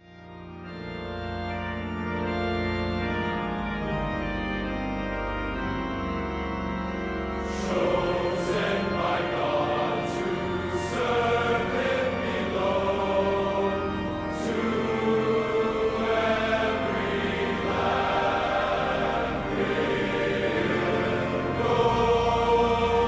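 Choir singing over sustained chords, fading in from silence and growing fuller about eight seconds in.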